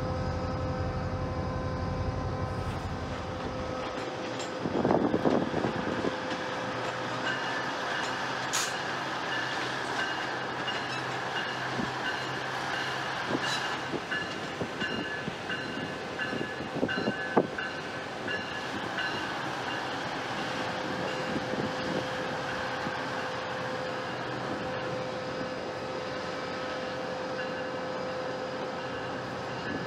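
Diesel passenger trains moving slowly over the tracks: a steady engine hum, with wheels clanking over switches a few times, loudest about five seconds in.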